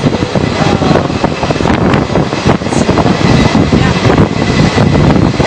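Indian express passenger train running at speed: a loud steady roar with dense rattling and clatter from the wheels and coaches.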